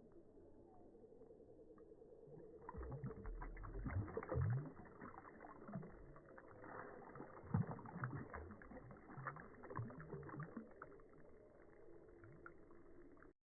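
Muffled splashing and dull knocks of hands handling a smallmouth bass in shallow creek water as it is released, irregular, starting about three seconds in and heaviest around the middle, then cutting off suddenly near the end.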